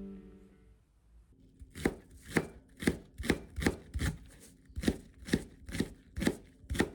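Knife chopping on a cutting board in a steady rhythm, about two to two and a half strokes a second, starting about two seconds in.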